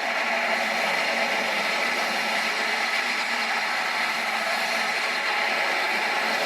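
Airbus A340 jet engines running with a steady rushing noise, even in level throughout.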